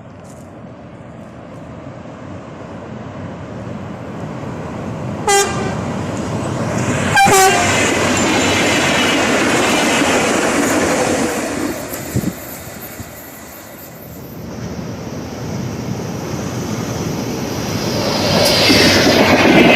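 Passenger train UTS610 sounding two short horn blasts about two seconds apart, with the rumble of the train running on the rails swelling, easing off, then growing loud again near the end with wheel clatter.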